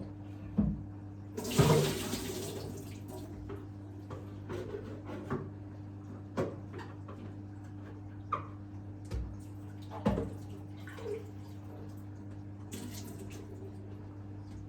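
Kitchen tap running in short spurts, with clunks of parts being handled and set down at the sink, over a steady low hum.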